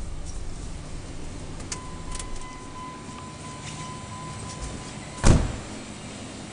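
A steady electronic tone sounds for about three seconds, then a vehicle door shuts with one loud thud about five seconds in, over a low steady rumble.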